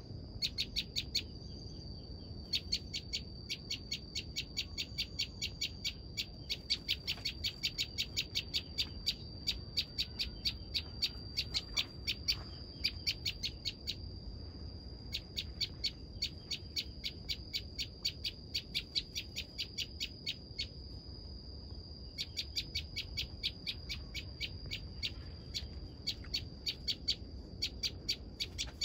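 Prinia (ciblek) calling: long runs of rapid, evenly repeated sharp high chips in several bouts with brief pauses, over a steady high whine.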